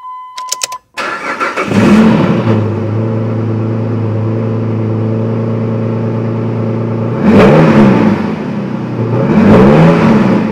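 A car engine cranking and catching about a second in, settling into a steady idle, then revved twice near the end, each rev rising and falling. Before it cranks, a steady electronic warning tone sounds along with a few clicks.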